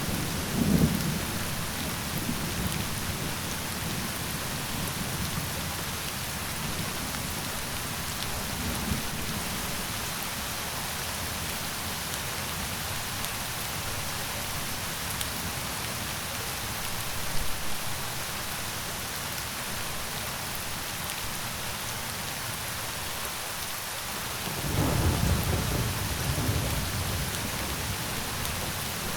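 Steady heavy rain falling, with low rolls of thunder rumbling at the start and again near the end.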